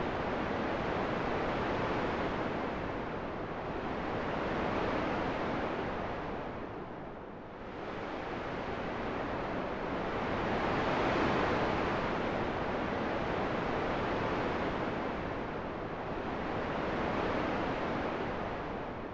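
Wind: a steady rushing noise that swells and eases slowly, dipping briefly about seven seconds in and again near the end.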